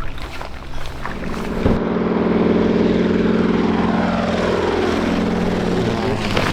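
De Havilland Beaver floatplane's engine and propeller running at power as the plane flies off, rising in loudness about a second in, then holding steady while its pitch slides gradually downward.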